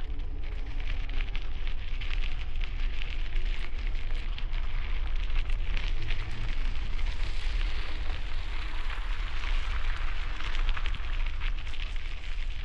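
Bicycle tyres crunching steadily over gravel, a dense crackle of small stones, with wind rumbling on the helmet-mounted microphone.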